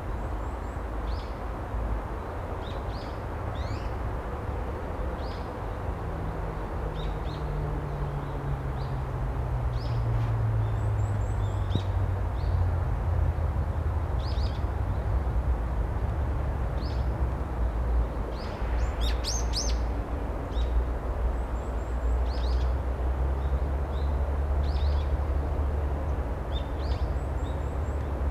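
Small songbirds chirping with short, scattered calls, a louder cluster about two-thirds of the way through, over a steady low background rumble. A low drone slowly falls in pitch from about six to twelve seconds in.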